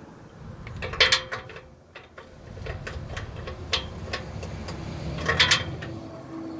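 Hand tools clinking and knocking against metal while an oxygen sensor is being worked into the exhaust. There are several sharp clicks, the loudest about a second in and about five and a half seconds in, over a low steady rumble.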